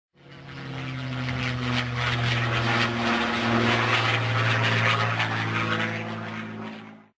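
Boeing B-17G Flying Fortress's four Wright Cyclone radial piston engines droning as it flies past. The sound swells to a peak, then fades, with a slight drop in pitch near the middle.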